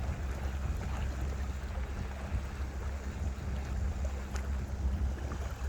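A steady low rumble under a constant hiss of noise.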